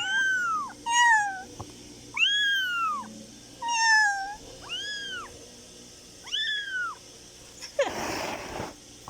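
Newborn kittens mewing: six or so high, thin mews that rise and fall, about one a second. A short noisy burst comes near the end.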